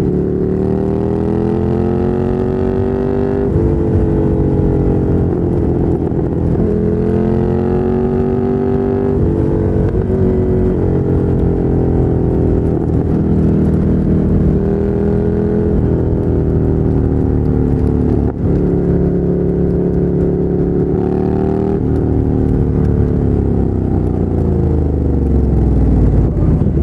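2017 Ducati Monster 797's air-cooled L-twin, through a LeoVince LV-10 aftermarket exhaust, under way: the revs climb and drop back at each upshift several times, then fall away steadily near the end as the bike slows.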